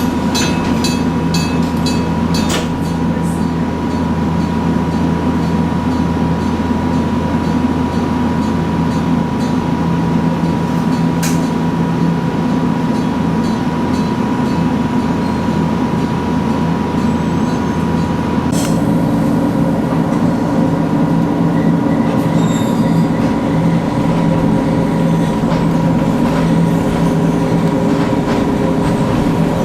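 Echizen Railway train running along the line, a steady rumble with a constant humming tone. There are a few clicks in the first seconds, and the sound changes about eighteen seconds in.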